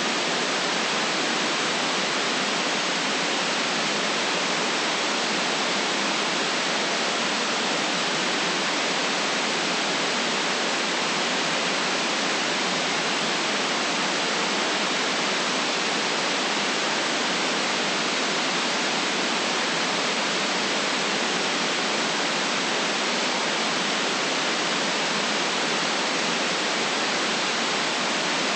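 Steady synthetic white noise: an even, unchanging hiss with no deep rumble and no very high sizzle, holding one level.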